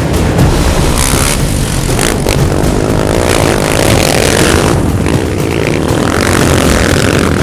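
Off-road racing quad engines revving hard and accelerating, their pitch rising and falling.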